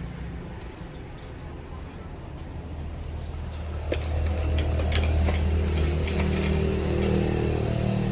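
A low, steady mechanical hum that grows louder about four seconds in, with a few light clicks over it.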